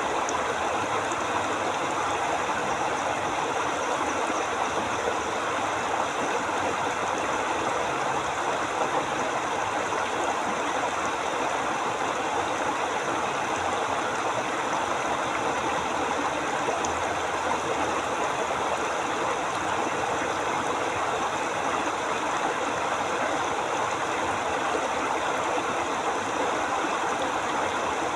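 River water flowing steadily over stones, an even, unbroken rush.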